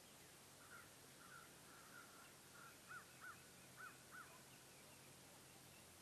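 A bird calling in a quick series of about eight short notes, the last four louder, over faint lakeside hiss.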